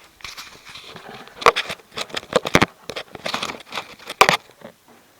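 A run of irregular clicks and knocks, some sharp, over about four seconds, from the controls and lid of a washing machine being handled to start a wash cycle.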